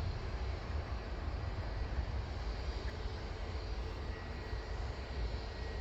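Distant airliner engines running out on the airfield, heard as a steady rush with an uneven low rumble underneath.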